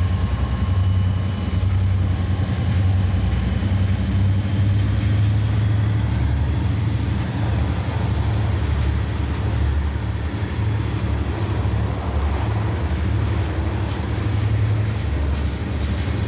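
Portland & Western freight train passing close by, its steel wheels rolling over the rails in a steady low rumble as the freight cars go by.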